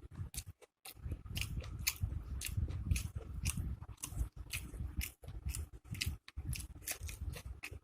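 Close-miked chewing of a mouthful of food: a low, steady mouth sound under many sharp, irregular crunching and wet clicks, with a brief pause about half a second in.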